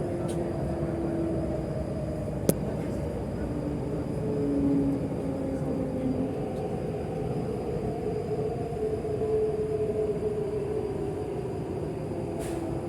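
Interior ambience of an MTR East Rail line R-train standing at a platform: a steady rumble and hum from the train's equipment and air handling, with faint tones shifting in pitch and a thin high whine. One sharp click about two and a half seconds in.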